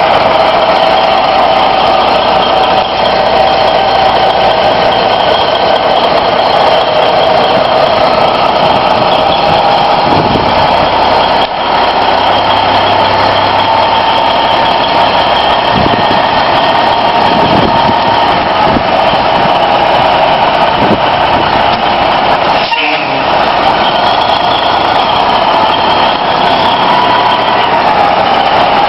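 An old truck's engine running steadily and loudly, with a steady whine over it that wavers in pitch near the end.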